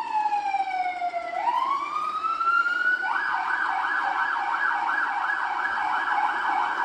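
Vehicle siren sounding: a slow wail that falls, then rises again, switching about three seconds in to a rapid warbling yelp that goes on.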